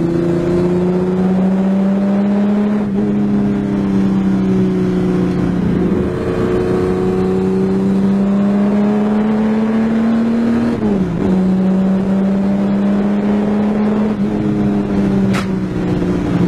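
Car engine pulling under load, heard from inside the cabin, its note rising slowly and dipping briefly about six and again about eleven seconds in, as at gear changes.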